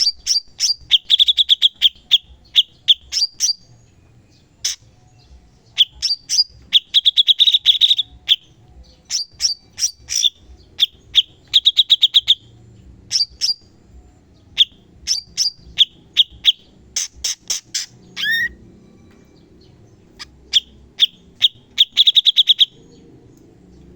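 Cucak cungkok bird singing in repeated bursts of sharp, rapid chattering notes and trills, each phrase a second or two long with short pauses between them. These are the aggressive 'tembakan' bursts that bird keepers play to tutor their birds.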